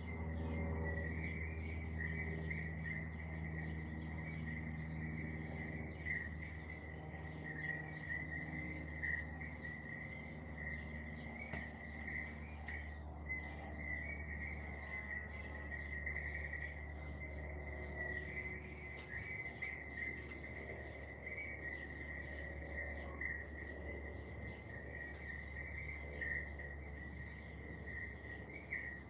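Steady high insect trilling, typical of a summer chorus, with many short bird chirps scattered over it. A low steady hum runs underneath.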